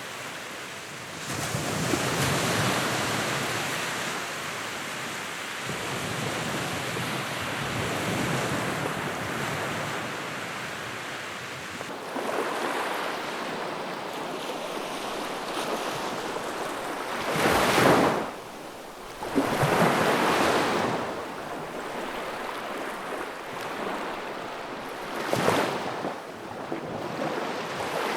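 Fire burning in a fireplace, its flames making a steady rushing noise that swells and fades, with a few stronger whooshing surges: two close together past the middle and one near the end.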